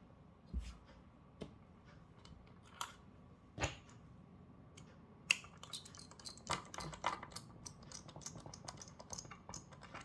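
Small clicks and taps of a metal heatsink and its screws being handled and fitted onto a circuit board, a few separate clicks at first, then a quicker run of light ticks in the second half.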